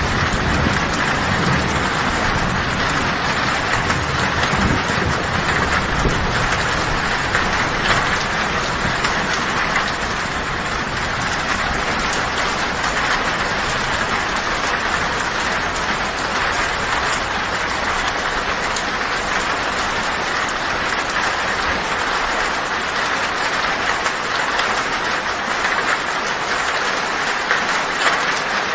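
Heavy rain drumming steadily on a tin roof. A low thunder rumble under it fades away over the first several seconds.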